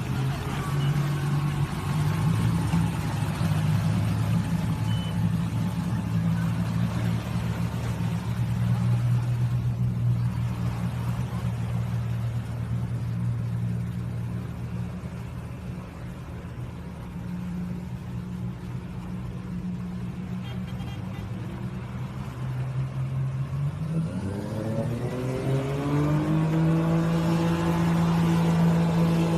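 Amphibious car's engine running steadily under load, then revving up about 24 seconds in and holding at a higher pitch.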